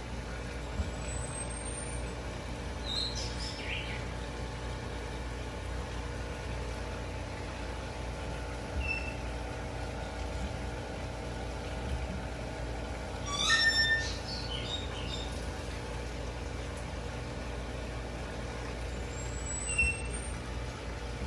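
Steady low background rumble with a few short, high bird chirps, the loudest cluster of them about two-thirds of the way through.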